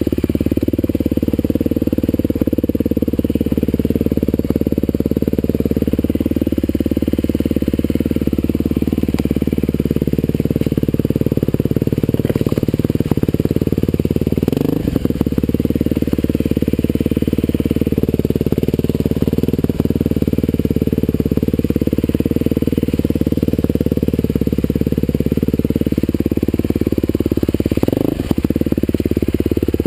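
Husqvarna TE511 single-cylinder four-stroke dirt bike engine running at moderate, gently varying revs while ridden along a trail. The engine note briefly drops and picks up again about halfway through and once more near the end.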